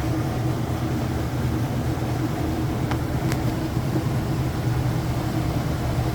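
Whirlpool washing machine drum spinning at high speed, a steady low drone and hum. Two faint short ticks come about three seconds in.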